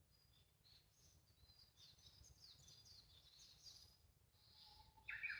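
Faint chorus of wild songbirds: thin, high chirps and a quick run of falling notes through the middle, then a louder, lower call near the end.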